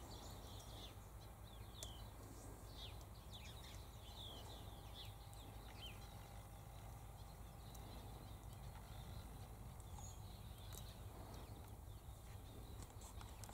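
Faint birdsong: many short, high chirps, each falling in pitch, scattered through the first half and thinning out later, over a steady low background rumble.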